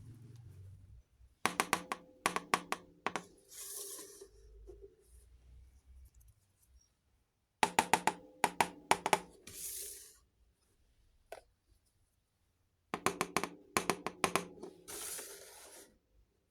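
Miniature toy kitchenware being handled, in three rounds. Each round is a quick run of small clicks and taps with a light ringing, followed by a short hissing swish.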